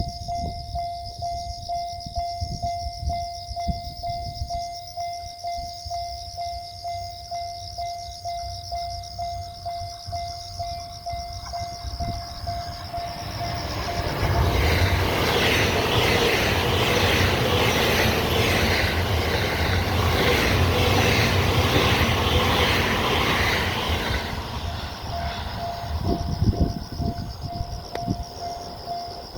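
A Japanese level-crossing warning bell rings in steady pulses. Then a 12-car E259 series Narita Express electric train passes for about ten seconds, its wheels clattering over the rail joints and drowning out the bell, which is heard again as the train goes. Wind buffets the microphone.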